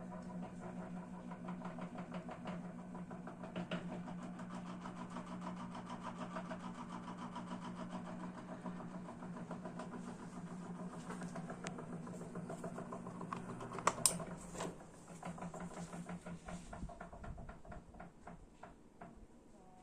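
Ventisol VP-60 wall fan's motor running with a steady hum and a fast rattling tick. About fourteen seconds in come two sharp clicks, the hum stops, and the ticking slows and fades as the fan coasts down after being switched off.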